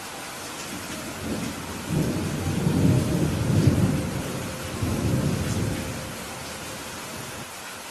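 Steady rain falling, with a low rumble of thunder that builds about a second in, peaks in the middle with a second swell, and dies away near the end.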